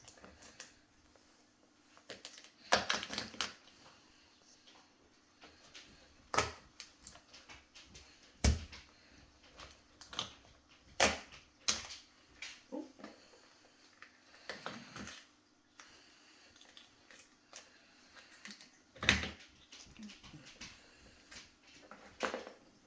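Lobster tail shell being cut and cracked open: irregular sharp cracks and clicks with pauses between them, the shell hard and resisting.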